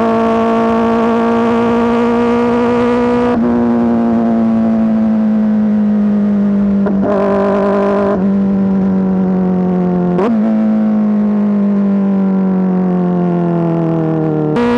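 Kawasaki ZX-4RR's 399 cc inline-four running at high revs through an SC Project S1 aftermarket exhaust. The note is loud and steady, with several brief breaks in it. The pitch sags slowly over the second half, then jumps back up near the end.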